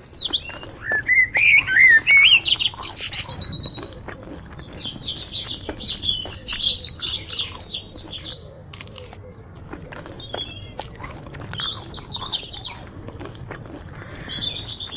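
Several birds chirping and calling in quick, wavering notes, loudest in the first three seconds, over a faint low rumble.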